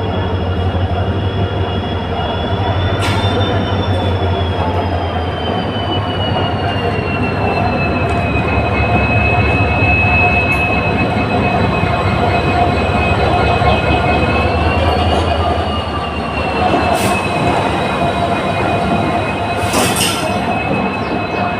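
Deccan Express passenger train running on the rails, its wheels giving a long, steady high-pitched squeal that slowly drifts in pitch over a low rumble, with a few sharp clacks along the way.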